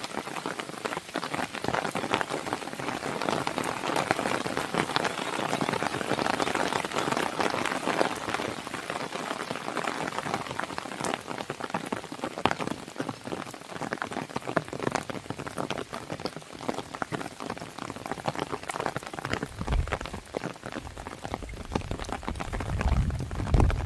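Steady rain pattering on a window, mixed with a wood fire crackling in sharp little pops. A low rumble swells in near the end.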